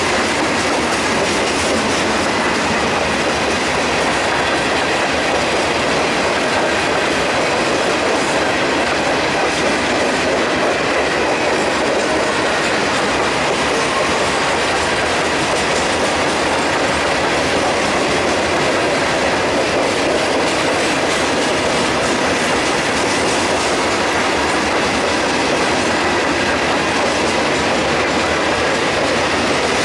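Freight train of covered hopper cars rolling past: a steady, loud rumble and clatter of steel wheels on the rails.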